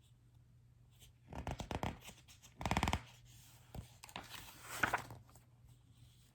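Handling noise from a children's sound book: rustling and clicking as pages are turned and the book is moved, with a brief louder rasp near the middle, over a faint steady low hum.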